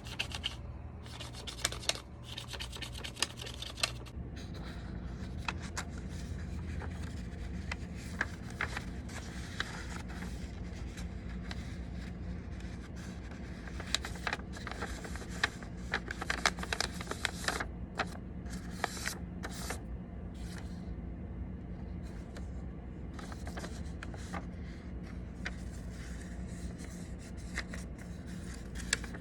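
A square of origami paper being folded and creased by hand: scattered short paper crackles and rubbing strokes as folds are pressed flat.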